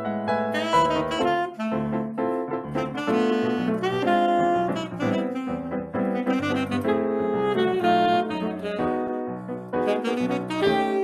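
Saxophone playing a fast melodic line of quick, shifting notes over piano accompaniment.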